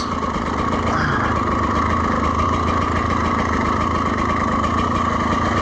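Dirt bike engine running at a steady engine speed, with an even drone that holds the same pitch throughout.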